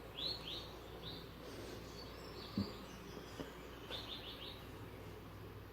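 A small bird chirps in quick runs of short, high notes: a couple at the start, one about a second in and a run of four about four seconds in. A single dull thump, the loudest sound, comes about two and a half seconds in.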